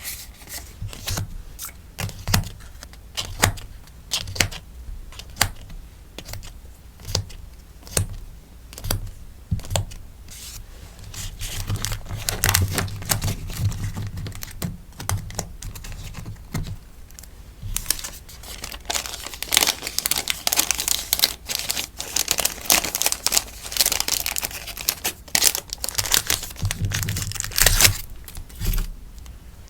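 Sticker orders being packed by hand: plastic and paper packaging crinkling and rustling, with sharp taps and clicks. The first part is mostly separate taps; from about a third of the way in, dense crinkling rustle takes over.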